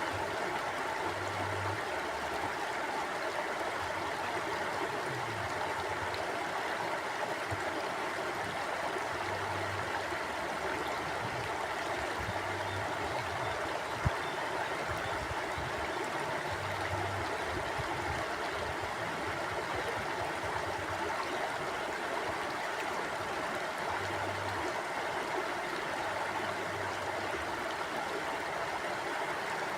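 Mountain stream flowing, a steady rush of water, with a single sharp click about halfway through.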